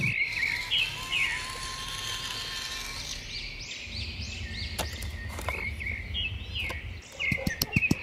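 Small birds chirping over and over. A low steady hum comes in about halfway through, and near the end a fast run of evenly spaced clicks starts, about four or five a second, louder than the birdsong.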